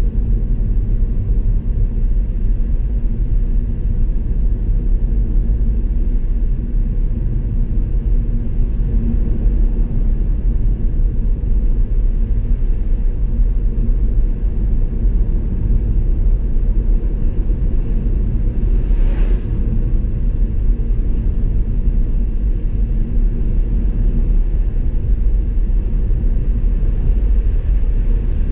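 Steady road noise of a car being driven: low tyre and engine rumble. A brief faint hiss about two-thirds of the way through.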